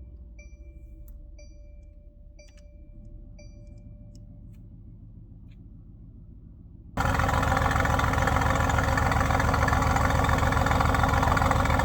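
A car's chime ticking steadily about one and a half times a second over a faint low engine rumble; about seven seconds in, a loud engine running steadily cuts in suddenly.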